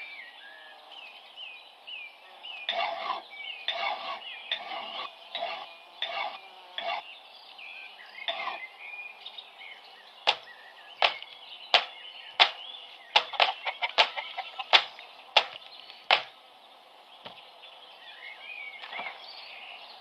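A series of knocks from tool strikes on a wooden block: duller, irregular blows in the first half, then a run of sharp knocks about one every two-thirds of a second that stops past the middle. Birds chirp in the background.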